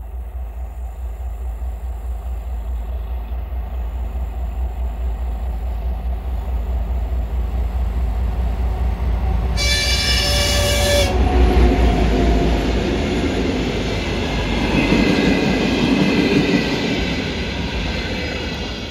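A passenger train hauled by a diesel locomotive approaches with a steady low rumble. The locomotive sounds one short horn blast about ten seconds in. After that, the rumble and clatter of the wheels grow louder as the train passes, then cut off suddenly.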